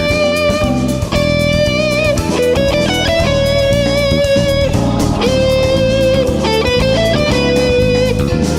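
Jazz fusion electric guitar playing a lead line of long held notes with slight vibrato, broken by quicker runs of short notes, over bass and chordal backing.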